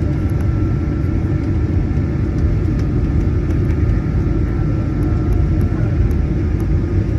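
Steady rumble of a Boeing 737-900ER's CFM56-7B jet engines and airflow heard from inside the cabin, with a faint steady whine that stops about six seconds in.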